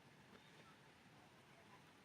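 Near silence: faint outdoor background hiss with a couple of very faint short chirps.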